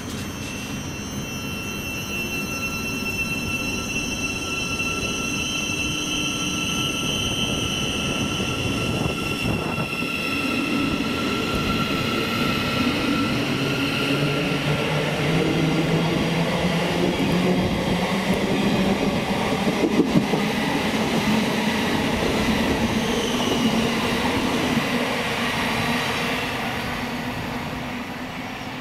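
A train passing on the main line, getting louder toward the middle and fading near the end, with a high whine that slowly falls in pitch.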